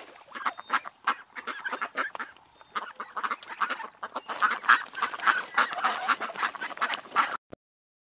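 Ducks quacking in a fast, continuous run of short calls, getting louder about halfway through and cutting off abruptly near the end.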